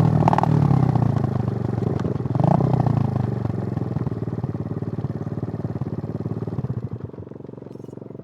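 Suzuki GN125's single-cylinder four-stroke engine running down as the bike slows, getting steadily quieter, then settling to a slow idle about seven seconds in. Two short clicks come early on.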